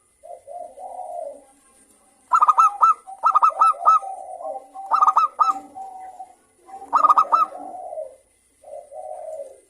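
Zebra doves cooing, several birds calling back and forth: bursts of quick, high staccato notes about two, five and seven seconds in, over lower, softer rolling coos.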